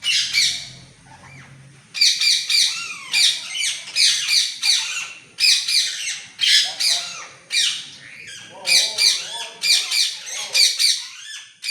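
A flock of green parrots screeching: harsh, shrill calls repeated in quick clusters, with a short lull about a second in before the calling picks up again.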